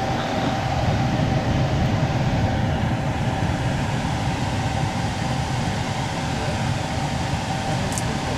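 Packaged air-conditioning unit running under a service check: a steady mechanical hum and whir of compressor and fan, with a faint steady tone, unchanging throughout.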